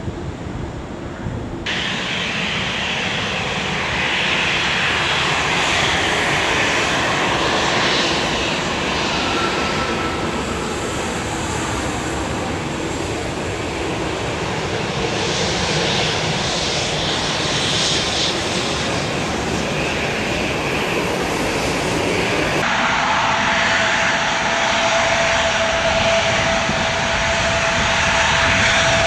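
Airliner engines running loud and steady at the airport, in several spliced clips that change abruptly about two seconds in and again near the end, where a steady whine comes in.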